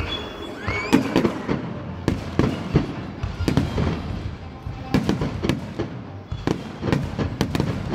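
Fireworks display: a rapid, irregular string of sharp bangs and pops as shells launch and burst overhead, more than a dozen in the span.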